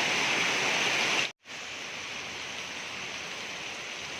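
Steady rain falling. The sound cuts out for a moment about a second in, then comes back a little quieter.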